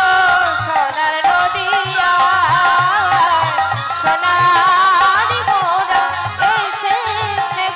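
Bengali kirtan music: a wavering, ornamented melody over a steady drum beat, with a light metallic rattle of hand cymbals.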